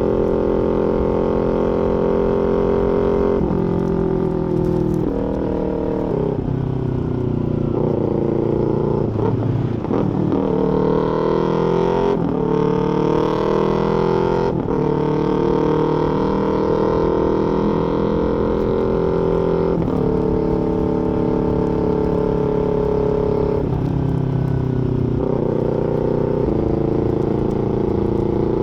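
Small parallel-twin sport motorcycle with an aftermarket full exhaust, running continuously under way. The engine note holds steady for stretches and then steps or glides to a new pitch every few seconds, with a dip and climb around ten seconds in.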